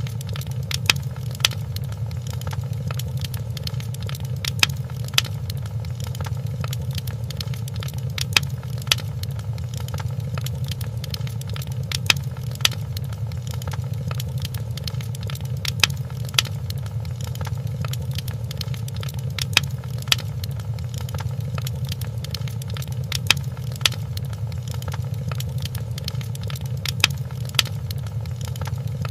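Wood fire crackling in a fireplace: small sharp pops over a steady low rumble, with a pair of louder pops about half a second apart recurring evenly, roughly every four seconds.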